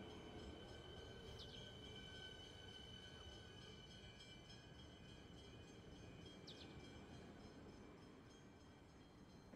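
Electric suburban train moving slowly along the platform: a faint, steady rumble with a thin high whine, slowly fading. Two brief high chirps come about five seconds apart.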